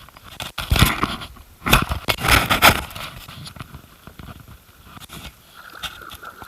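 A kayak moving on a river: a few loud splashing, knocking bursts from the paddle and hull in the first three seconds, then quieter water noise with light knocks.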